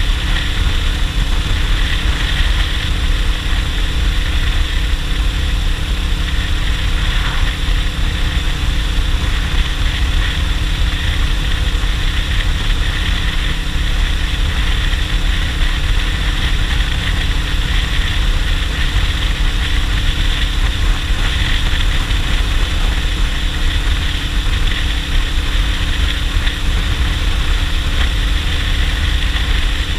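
Suzuki GS500E's air-cooled parallel-twin engine running steadily as the motorcycle cruises, mixed with wind rushing over the microphone.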